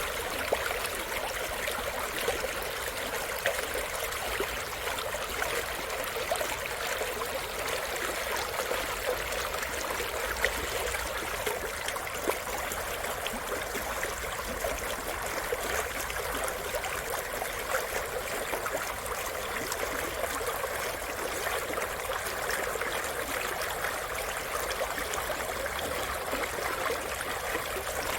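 Mountain valley stream flowing over rocks: a steady, even rush of water with many small splashes and trickles.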